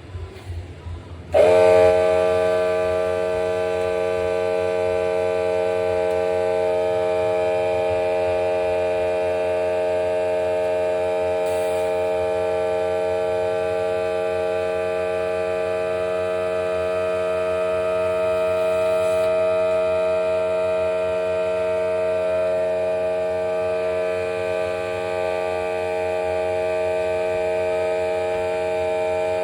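Air compressor switching on abruptly about a second and a half in and running steadily with an even, unchanging drone, inflating a freshly fitted pit bike inner tube.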